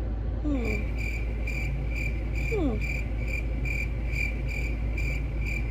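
A high-pitched beep repeating evenly about two and a half times a second, starting about half a second in, over a low steady hum.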